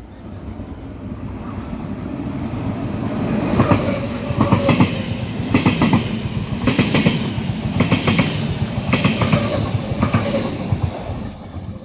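A passing train, its wheels clattering over rail joints in clusters of clicks about once a second. It grows louder over the first few seconds and falls away near the end.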